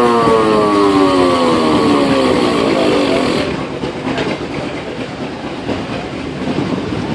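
Steam whistle on a steam engine sounding one long blast whose pitch sags steadily downward until it dies out about three and a half seconds in, leaving a steady hiss and rumble.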